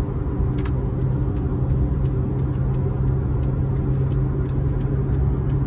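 Steady, loud mechanical hum with a strong low tone, with sharp clicks two or three times a second laid over it.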